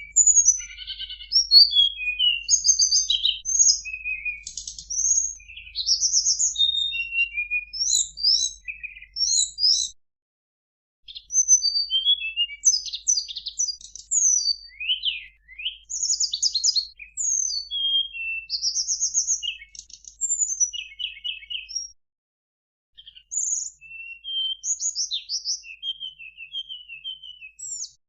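Tledekan gunung (Sunda robin) singing a long, varied song of quick high whistles, slurred notes and rapid trills, broken by two brief pauses.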